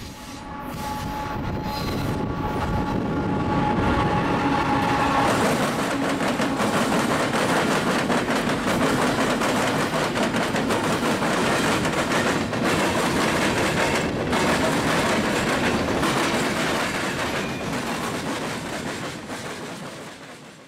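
Norfolk Southern freight train approaching and passing: a horn chord sounds for the first five seconds or so and cuts off, then the diesel locomotives and a long string of tank cars and hoppers go by with loud steady wheel-and-rail noise that fades near the end.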